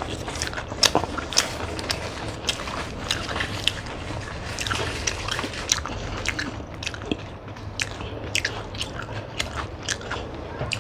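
Close-up eating sounds: several people biting and chewing egg rolls, with the rustle and crinkle of their paper wrappers. Many short, sharp clicks and crackles follow one another irregularly.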